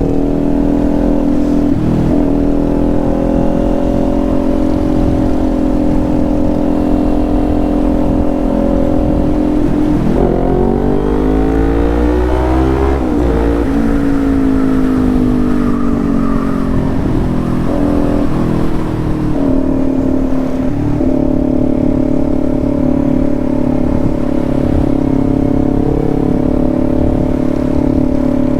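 Motorcycle engine running while riding at a steady speed, with a low wind rumble. Its pitch climbs for about three seconds a third of the way in, then drops back and settles to a steady note.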